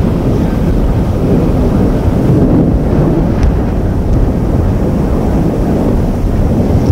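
Wind buffeting the microphone during a thunderstorm: a loud, steady low rumble.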